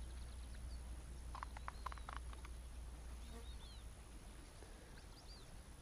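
Faint birdsong outdoors: a quick run of short notes, then two small groups of brief arching chirps, over a low rumble that fades out about halfway.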